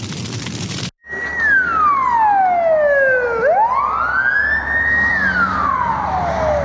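A siren wailing: one tone sliding slowly down, back up, holding high and sliding down again over several seconds, starting just after about a second of noise that cuts off abruptly.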